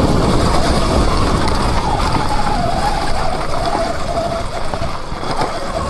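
Wind buffeting the microphone while riding, with the whine of an electric dirt bike motor that rises and falls in pitch.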